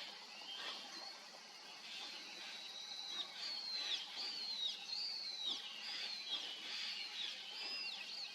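A bird calling: a run of about eight high whistled notes, each held briefly and then dropping sharply in pitch, about one and a half a second. They start a few seconds in, over a faint outdoor background.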